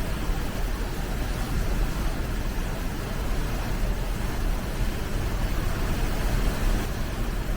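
Flowing water rushing steadily, a continuous even noise with a heavy low rumble and no breaks.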